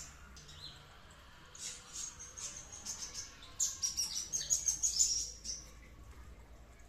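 A songbird singing: high, quick chirps and twitters, densest in a rapid run about four to five and a half seconds in.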